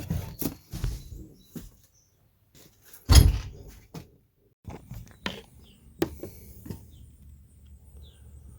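A series of separate knocks and clunks, with one heavy thump about three seconds in.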